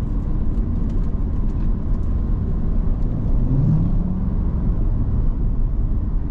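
C7 Corvette's V8 and road noise heard from inside the cabin: a steady low drone, with the engine note rising briefly about three and a half seconds in.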